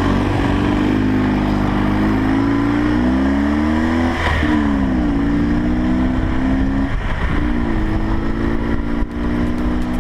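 Motorcycle engine running hard, its pitch climbing, then dropping sharply about four seconds in as it passes close by, then climbing again.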